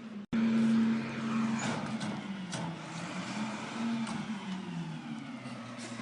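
Vehicle engine running with a steady hum that shifts up and down in pitch, broken by a brief dropout just after the start.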